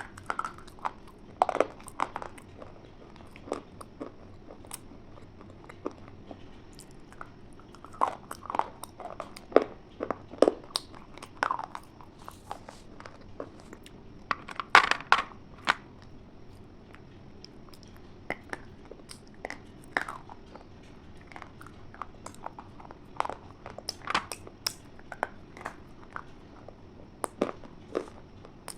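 A person biting into and chewing something hard and crunchy: irregular sharp crunches that come in clusters, with pauses between them.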